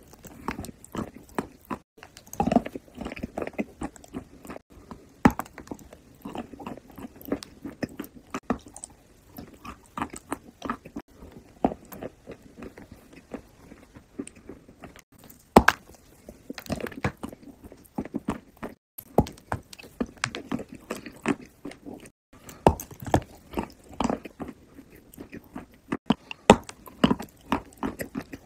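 Close-miked eating sounds: biting into and chewing a soft frosted cupcake, with a steady, irregular run of wet smacks and sharp mouth clicks.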